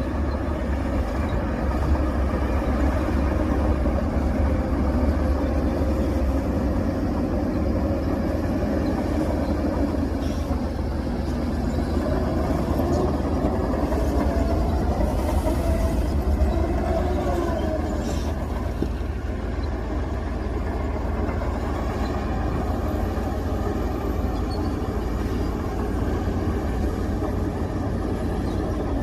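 Diesel engines of heavy earthmoving machinery running steadily with a deep rumble, with a tone that wavers up and down for a few seconds about halfway through.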